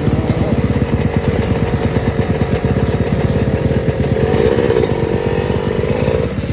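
Motocross bike engine running with a rapid, even firing beat, swelling briefly about four seconds in.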